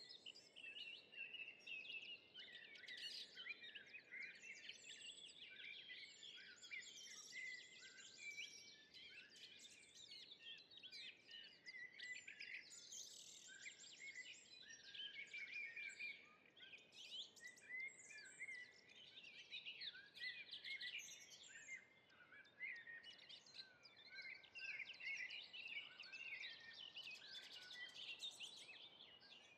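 Faint dawn-chorus-like mix of many songbirds singing at once, with overlapping chirps, trills and whistled phrases that never pause, over a soft background hiss.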